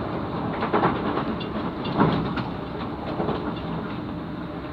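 Moving passenger train heard from inside the carriage: a steady rumble of wheels on the track, with louder clatters about one and two seconds in.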